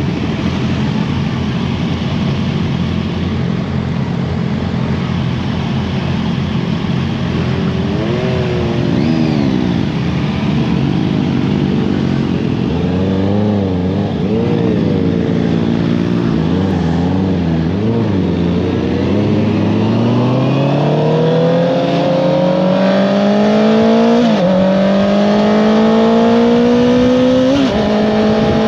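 Honda CBR650R inline-four engine with an Akrapovič exhaust, under way. Its pitch holds steady at first, then rises and falls with the throttle through the middle, and in the last third climbs steadily, with two upshifts where the revs drop suddenly near the end.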